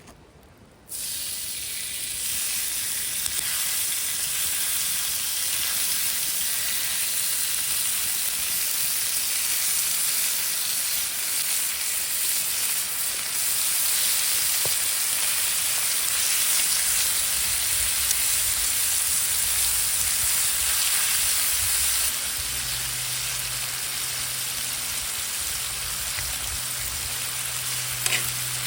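Food sizzling and frying in a hot pan: a dense, steady hiss with scattered small pops, starting suddenly about a second in.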